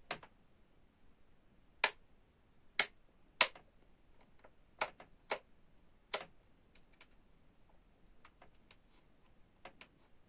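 A series of sharp, separate clicks at irregular spacing, about seven louder ones in the first six seconds, then a few fainter ticks.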